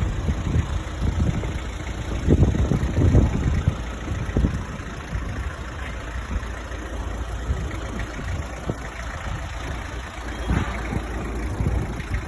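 Toyota Hilux Surf LN130's four-cylinder diesel engine idling after a cold start, with a few irregular louder surges around two to three seconds in.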